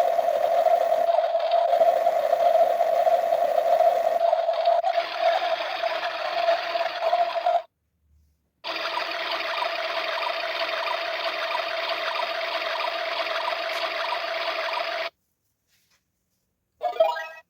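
Battery-powered toy washing machine's small motor running with a steady whir, stopping briefly about halfway, then running again for several seconds before cutting off; a short burst of sound comes just before the end.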